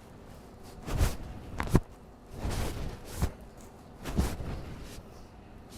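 Short, hard puffs of breath and soft thumps from a man straining through a set of pull-ups, about five in a few seconds, one of them a longer blow out.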